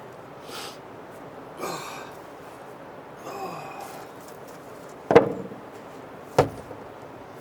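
Two sharp knocks about a second and a half apart over a steady background hiss, after a few faint breathy sounds.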